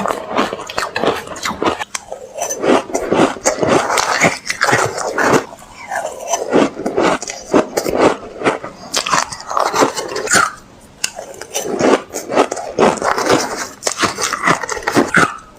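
Close-up crunching of ice being bitten and chewed, a steady run of sharp cracking crunches with short pauses between bites.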